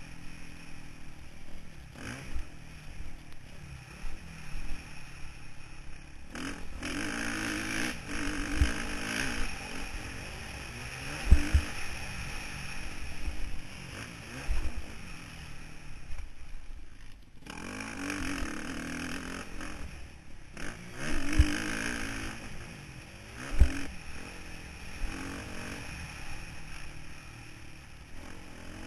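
Motocross bike engine revving up and easing off in repeated surges as it is ridden, heard through a camera mounted on the bike. Several heavy thumps, the loudest sounds, and some clattering come through during the ride.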